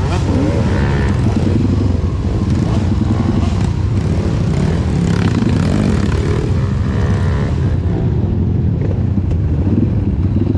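Off-road trail motorcycle engine running under throttle, its pitch rising and falling as the rider works the throttle.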